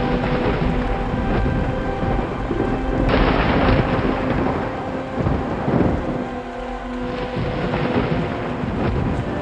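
Thunderstorm: steady heavy rain with rumbling thunder, and a loud thunder crash about three seconds in followed by further rolls. Soft held tones of relaxing music sit underneath.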